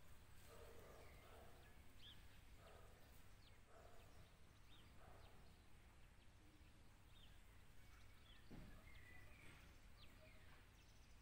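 Near silence: faint garden ambience with scattered brief bird chirps over a low steady background rumble.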